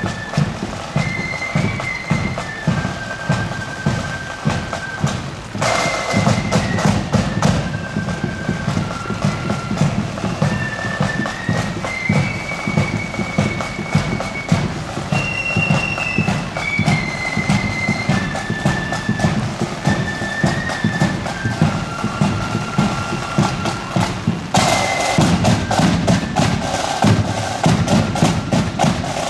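Marching band playing a tune: a high melody of held notes over steady, regular drumbeats. The sound grows fuller and louder about six seconds in and again near the end.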